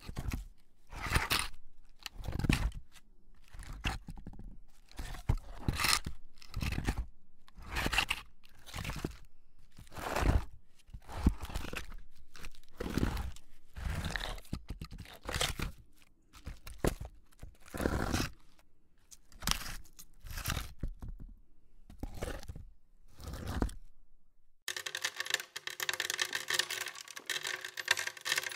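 A series of separate, irregularly spaced crunching impacts, roughly one a second. About three-quarters of the way through they give way to a steadier, continuous noisy sound.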